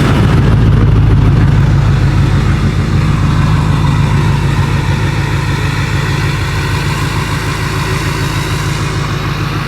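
Truck engine idling just after being started, a steady low drone that is a little higher and louder in the first couple of seconds, then settles.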